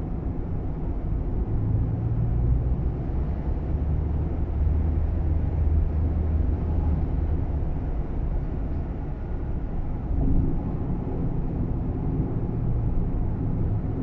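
Steady low road and engine rumble inside a moving Nissan Roox kei car's cabin.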